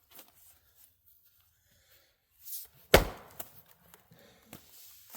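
A Fiskars X27 splitting axe striking a hardwood log once, about three seconds in, a single sharp chop with a short swish just before it. A few faint knocks follow.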